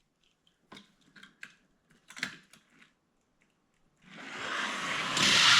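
A few faint clicks as die-cast toy cars are handled, then about four seconds in a rolling rumble of two die-cast cars running down a plastic track, growing louder toward the end.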